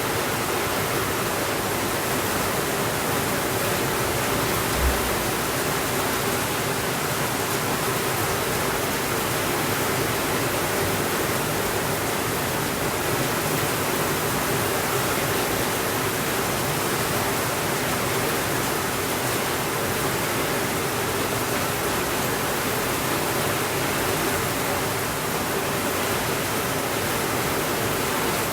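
Steady rainfall, an even hiss that doesn't change, with a single short low thump about five seconds in.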